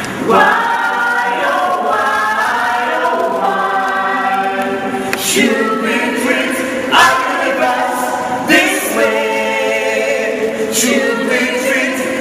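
A group of voices singing unaccompanied, holding long notes, with a new sung phrase starting every couple of seconds.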